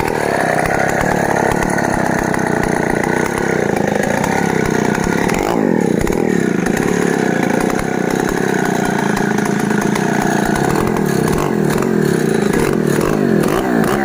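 Stihl 070 two-stroke chainsaw running steadily at high revs. Its pitch drops briefly and recovers about five to six seconds in.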